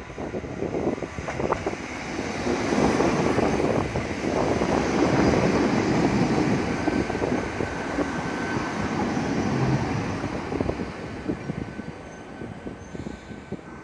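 Ohmi Railway electric train passing close by: a loud rush of running noise with repeated wheel clicks, building up as it arrives and fading away near the end. A thin steady whine joins about halfway through.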